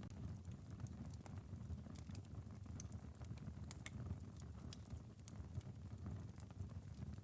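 Wood fire crackling, with scattered sharp pops at irregular moments over a low steady rumble, and light rain pattering on a window.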